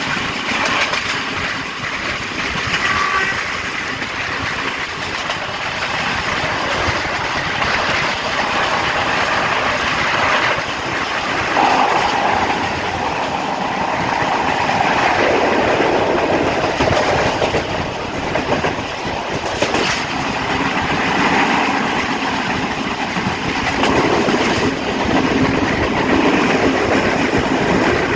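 Passenger train running along the line at speed: steady wheel and rail noise from the coaches with wind rushing past, heard from an open carriage doorway.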